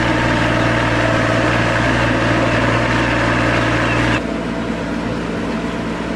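Engine of a farm machine running steadily, then cutting suddenly about four seconds in to a quieter steady engine sound.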